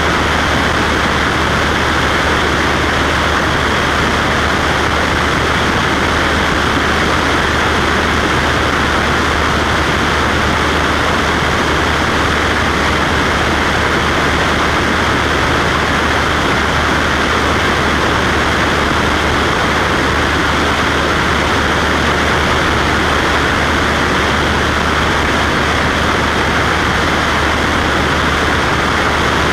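Cessna Skywagon's piston engine and propeller running steadily in flight: a low, unchanging hum under an even rushing noise.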